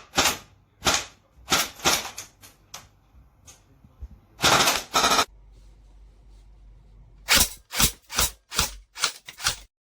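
Airsoft replica firing: several single shots, a short longer burst, then after a pause a quick string of about eight shots.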